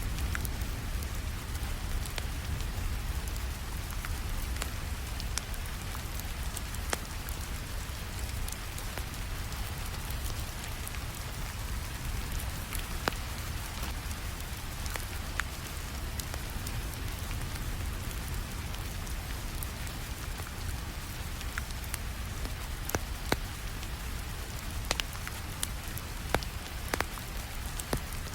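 Steady rainfall with a low rumble underneath, mixed with a wood fire crackling: scattered sharp pops, coming more often in the second half.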